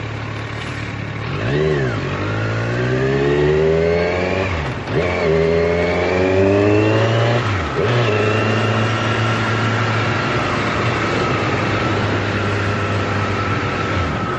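A vehicle engine accelerating up through the gears: its pitch climbs and drops sharply at three gear changes, then holds steady at a cruise for the rest of the time.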